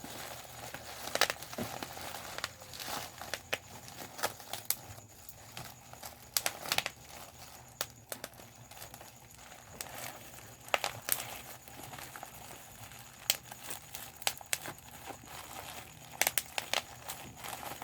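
Bubble wrap being handled and popped: plastic crinkling steadily, broken by sharp irregular pops, a few every second or so.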